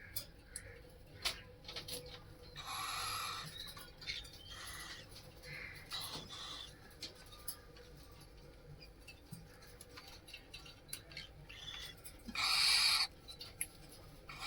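Cockatiels giving two harsh, hissing calls, each about a second long, one about three seconds in and a louder one near the end, among scattered light clicks and scratches.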